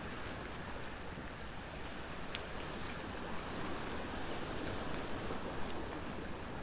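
Ocean waves washing on the shore in a steady rush that swells a little midway, with a few faint crackles of a wood campfire.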